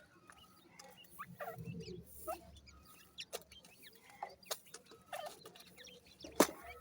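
Young teetar (partridge) chicks peeping and chirping in many short, scattered calls, with a single sharp click near the end.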